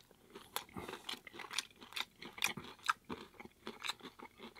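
A person chewing a crunchy hard corn taco shell close to the microphone, with sharp, irregular crunches several times a second.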